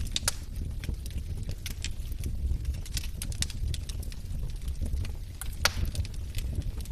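Wood fire burning in a fireplace: logs crackling with irregular sharp pops over a steady low rumble of the flames, one louder pop about five and a half seconds in.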